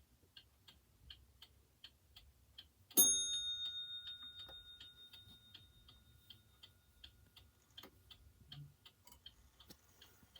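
Waterbury Beehive 8-day mantel clock ticking quickly and evenly. About three seconds in, its bell strikes once, a clear metallic ring that fades slowly under the ticking. This single bell stroke is the clock's half-hour strike.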